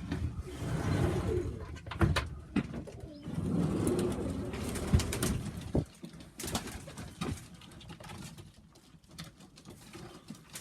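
Domestic pigeons cooing in a loft, louder in the first half, with scattered sharp clicks and knocks.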